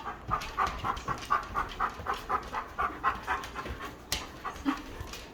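A large dog panting quickly and steadily, about four breaths a second, with a single sharp click about four seconds in.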